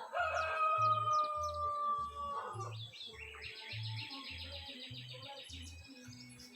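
Wild birds calling over background music with a steady bass beat: a long held, slightly falling note in the first couple of seconds, then a rapid high trill lasting about two seconds.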